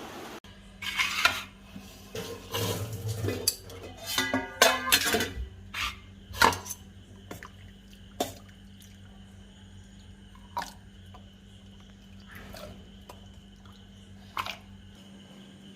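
Metal spoon and utensils clinking and clattering against pots and bowls: a busy run of clinks for the first six seconds or so, then only occasional single clinks.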